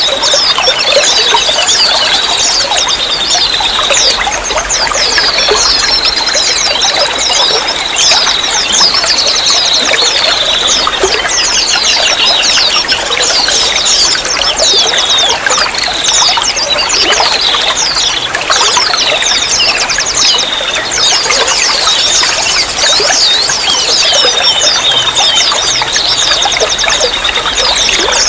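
Running water trickling and pouring steadily, with many short high chirps and a wavering high tone over it.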